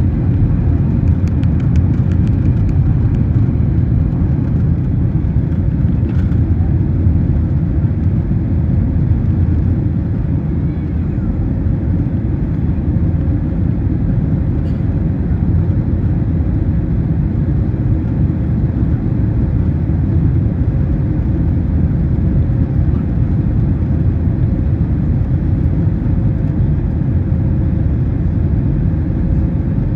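Steady low rumble of an Airbus A321neo's Pratt & Whitney PW1100G geared turbofans and airframe heard inside the passenger cabin, with a faint steady hum riding on top.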